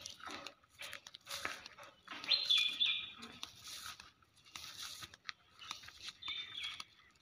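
A bird calling twice, each call a quick run of notes stepping down in pitch. Under it are irregular crunching steps through dry grass and leaves.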